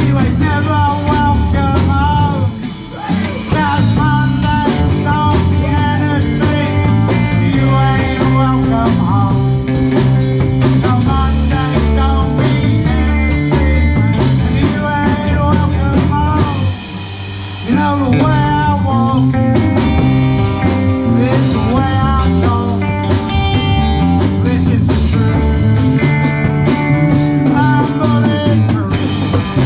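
Live blues-rock band playing an instrumental passage on drums, bass and electric lead guitar, the guitar bending notes. The band drops back briefly twice, about three seconds and seventeen seconds in.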